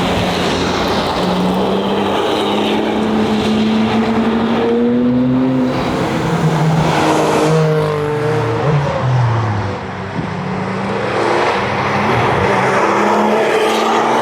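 2021 Porsche Cayman GT4's 4.0-litre flat-six engine being driven hard. Its pitch climbs through the first few seconds, drops in steps around eight to nine seconds in, then builds again.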